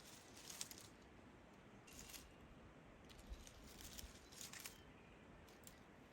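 Near silence: faint outdoor ambience with a few soft, scattered ticks.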